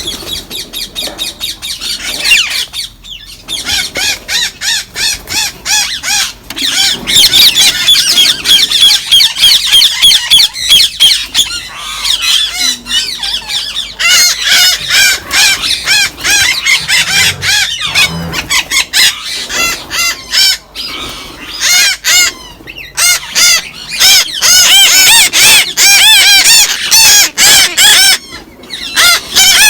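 Parrots and parakeets in an aviary screeching and squawking, many loud harsh calls in rapid succession overlapping one another, with a few short lulls.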